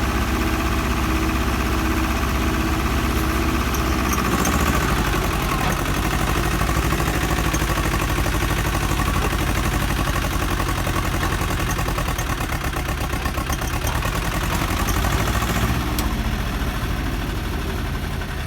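Swaraj tractor diesel engine running steadily; its note changes about four seconds in and again near the end.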